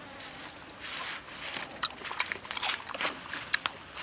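A person chewing stir-fried squid with wet lip smacks and mouth clicks, several sharp clicks in the second half.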